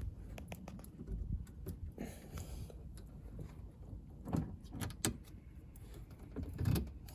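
Scattered clicks and knocks of plastic push-pin rivets with zip ties being pressed into holes along a side-by-side's frame rail to hold the winch wiring, with a few louder thumps in the second half.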